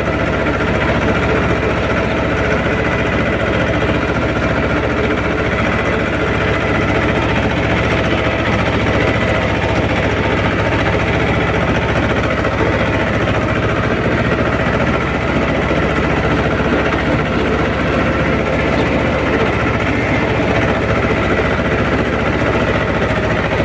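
Mahindra 24 HP mini tractor's diesel engine running steadily at an even pace while the tractor is driven.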